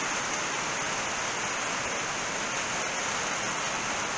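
Heavy rain coming down, a steady, even hiss.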